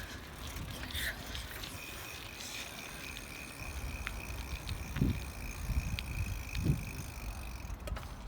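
Bicycle riding: low wind and road rumble, with a steady high-pitched whine from about two seconds in to near the end, and two thumps a little over a second apart.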